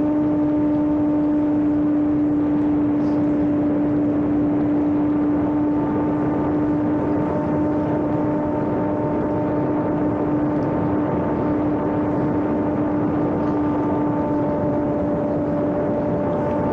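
Homemade electric RC airplane's motor and propeller running at a steady throttle in flight: one steady, unwavering tone with overtones over a hiss of rushing air.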